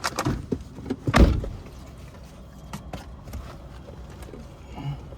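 Car door shutting with a heavy thump about a second in, after a few small clicks and knocks.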